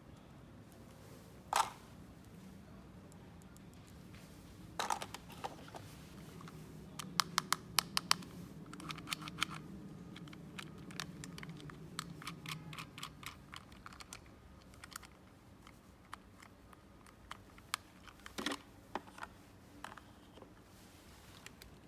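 Small plastic toy pieces being handled, clicking and tapping against each other. There is a single click, then a fast run of light ticks for a few seconds, then scattered clicks.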